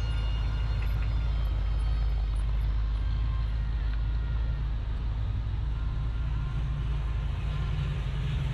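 A motor vehicle's engine running with a steady low rumble, against outdoor background noise.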